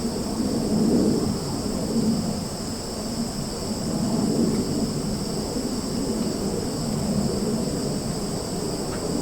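Summer forest ambience: insects trilling steadily in two high, unbroken tones, over a low rumble that swells and fades every second or two.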